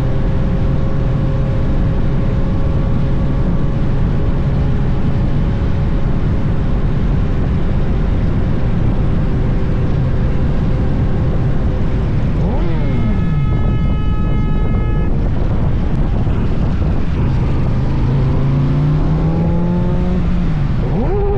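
Motorcycle engine running at road speed under heavy wind rush. About halfway through, the engine note drops as the rider slows, and a vehicle horn sounds for about two seconds. Near the end, the engine revs climb again through rising pitches as the bike accelerates, then fall sharply.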